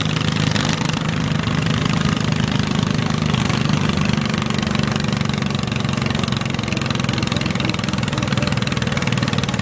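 Small garden tractor engine running steadily at a fairly even speed.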